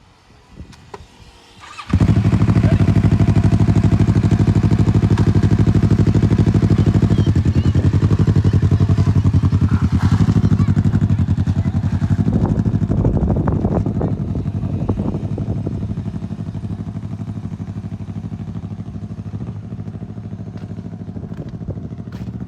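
A motorcycle engine starts up suddenly about two seconds in and runs at a steady, even pitch, loud at first and then gradually quieter through the second half.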